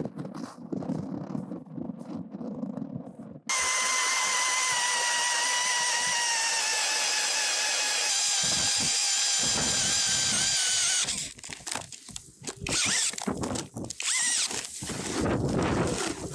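Sumitachi cordless drill spinning an ice auger, a steady motor whine that starts suddenly about three seconds in, sags slightly in pitch under load, and cuts off after about seven seconds.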